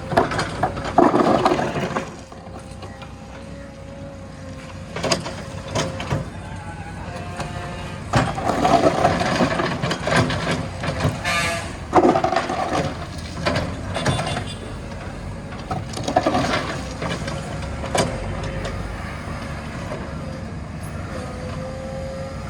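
JCB 3DX backhoe loader's diesel engine running as it works, with a steady whine and several louder surges of noise every few seconds.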